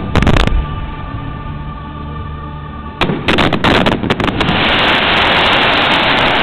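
Aerial fireworks exploding: a few sharp bangs, then a quick volley of bangs about three seconds in, followed by a dense, steady hiss for the last two seconds.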